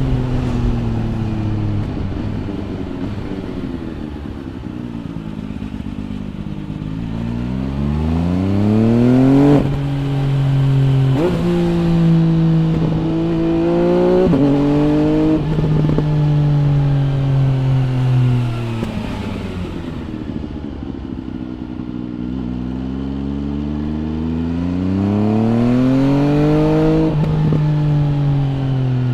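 MV Agusta Brutale 800 RR's inline three-cylinder engine through an MV Agusta Corse trio exhaust, heard from the rider's seat. The revs fall off, then climb through several quick upshifts, each a sudden drop in pitch, ease off again for a few seconds and build once more to another shift near the end.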